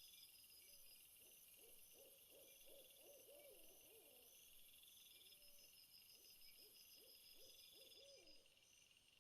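Faint owl hooting: two runs of quick, wavering low hoots over a steady chorus of chirping crickets.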